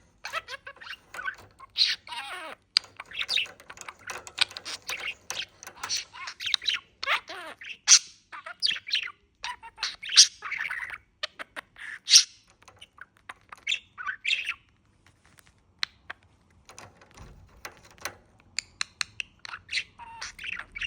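Male budgerigar chattering and warbling in rapid high chirps, squawks and quick gliding notes. It falls nearly quiet for a few seconds about fifteen seconds in, then starts chattering again.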